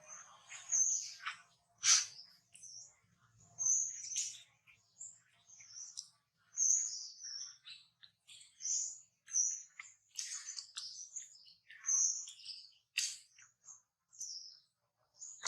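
Small birds chirping: many short, high-pitched calls in irregular succession.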